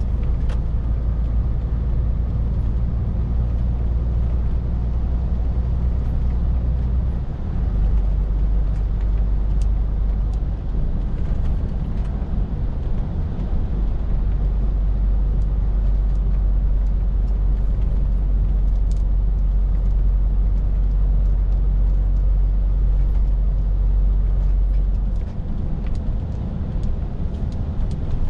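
Scania R450 lorry's 13-litre six-cylinder diesel engine running under way, a steady low drone with road noise over it. The engine note shifts about seven seconds in and again near the end.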